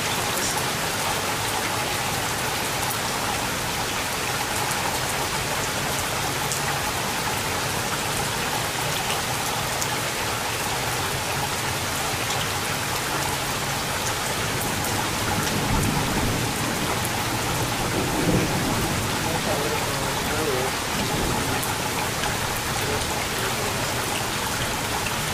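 Steady rain falling, with fine drop ticks, and a low rumble of thunder a little past the middle.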